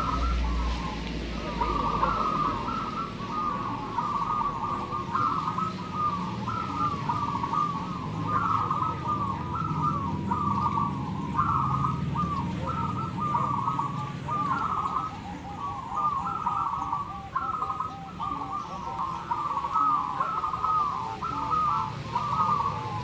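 A chorus of many zebra doves cooing at once. Their short, rhythmic coos overlap in an unbroken stream over a low background rumble.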